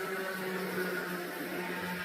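Athearn Dash 8-40B model locomotive running on track, its electric motor and gear drive giving a steady whir with a constant hum.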